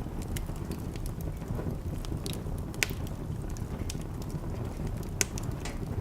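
Wood fire crackling in a fireplace: scattered sharp pops and snaps over a steady low rumble, with the loudest pops a little before 3 seconds and just after 5 seconds.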